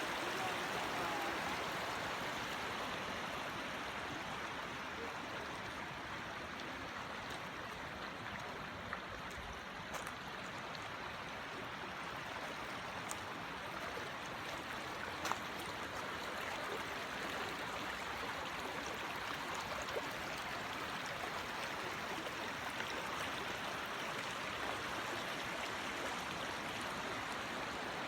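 Creek water running over rocks: a steady rush of flowing water, with a few faint clicks.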